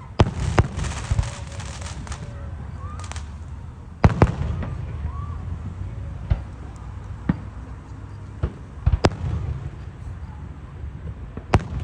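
Fireworks going off: a series of sharp bangs at irregular intervals, some followed by crackling, with the loudest about four seconds in and again about nine seconds in.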